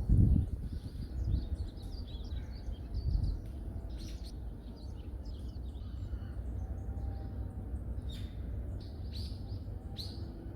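Wild songbirds calling: many short high chirps and tweets scattered throughout, with a few sharper, louder calls near the end. Under them runs a steady low rumble, with a loud swell in the first half-second.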